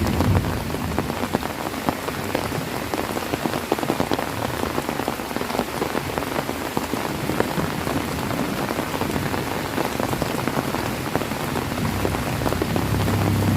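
Heavy rain falling steadily, a dense patter of drops striking surfaces. A low rumble comes in near the end.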